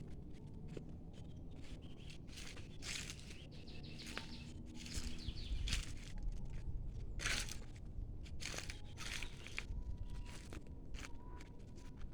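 Outdoor woodland ambience: a low rumble with irregular rustling and crunching noises, thickest in the middle, and faint bird chirps.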